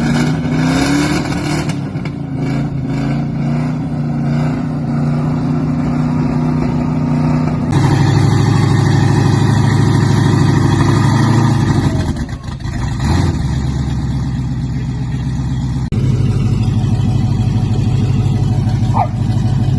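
4x4 competition truck's engine running hard under load, held at high revs with brief drops and blips. It steps up in pitch and loudness about eight seconds in and sags for a moment around twelve seconds.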